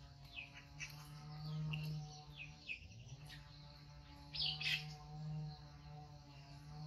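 Small birds chirping in many short, quick, falling chirps over a steady low hum.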